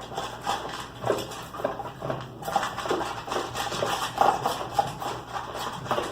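Dogs at their food bowls: irregular clatter and scraping mixed with small dog sounds, many short sounds close together.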